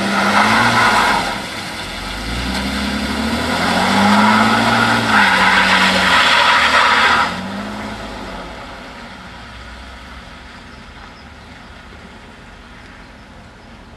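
1982 Mercedes-Benz 280SE's straight-six engine revving up and down several times as the car drifts, with loud hissing of wheelspin and spray on the wet ice in two long spells. The sound fades away over the second half as the car drives off.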